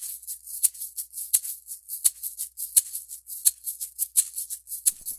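Music: a shaker playing a steady rhythm on its own, about three shakes a second with every other stroke accented.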